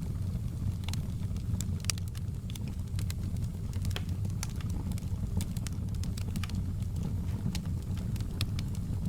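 Campfire crackling: irregular sharp pops and snaps of burning wood, several a second, over a steady low rumble of the fire.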